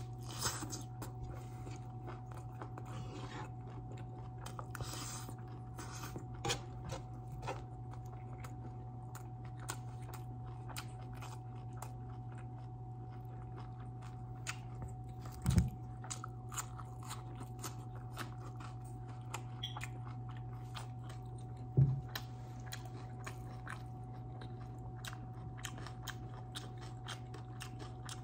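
Close-up chewing and biting on a barbecued turkey leg: many wet mouth clicks and smacks throughout, with two louder dull thumps, one about halfway and another some six seconds later, over a steady low hum.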